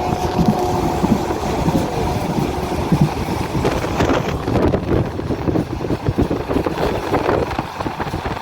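Train running along the track: a steady rumble of wheels on rails with irregular clatter.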